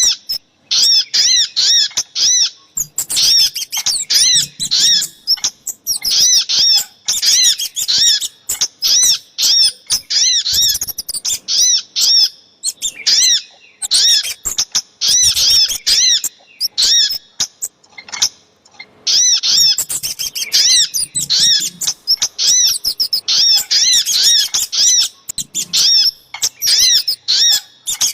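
Bird-lure recording of small songbirds, sogok ontong (a sunbird) and kemade, calling: rapid runs of sharp, high repeated notes in bursts, with a few short pauses.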